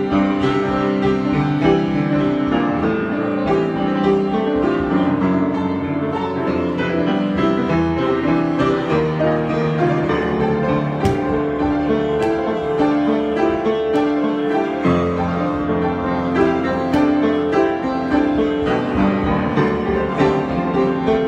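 Piano playing an improvisation, a steady flow of many notes and chords.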